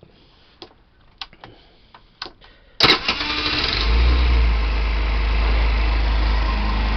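A few light clicks, then about three seconds in a 50cc GY6 four-stroke scooter engine starts from cold and catches at once, settling into a steady idle. It starts instantly after sitting all day, the sign of a healthy rebuilt engine with good ignition.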